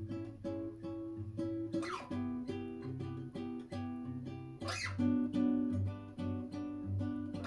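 Acoustic guitar playing the intro of a song, a repeating strummed chord pattern with regular strokes and a couple of harder accented strums.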